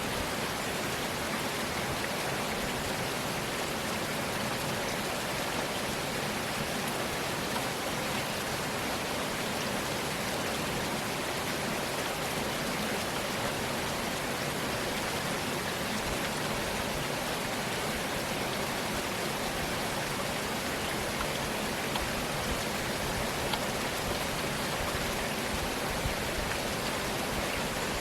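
Rain from a rainstorm falling steadily, an even hiss with no let-up.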